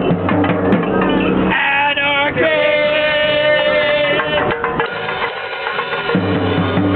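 Amateur group playing loud live music with drums and percussion. About a second and a half in, the low part drops out and a single note is held for a couple of seconds; the low part comes back in near the end.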